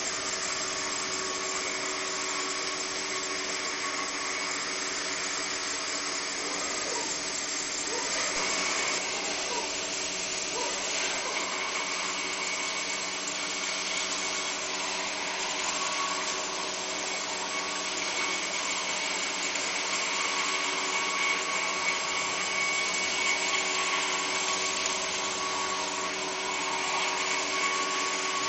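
Helios Five CNC stone-milling machine running steadily as it mills a sink from a solid stone block: a continuous motor whine of several held tones over a rushing noise, shifting slightly in pitch a couple of times.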